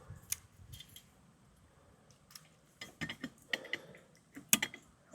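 Light metallic clicks and clinks as a steel exhaust spring is stretched and hooked onto the stainless muffler joint. There are a few scattered clicks, a pause of about two seconds in the middle, and the sharpest click comes near the end.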